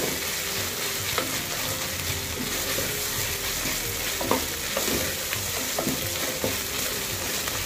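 Sliced onions and ginger-garlic paste sizzling in hot oil in a pressure cooker while being stirred with a wooden spoon, with a few sharp knocks and scrapes of the spoon against the pot.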